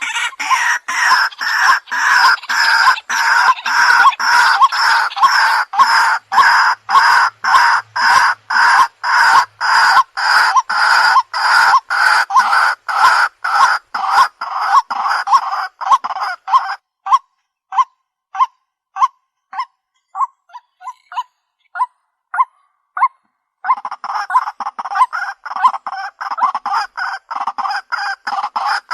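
White-breasted waterhen calls: a loud chorus of repeated harsh "kwak" notes, about two or three a second, that thins to sparse single notes past the middle and then swells back to the full chorus near the end.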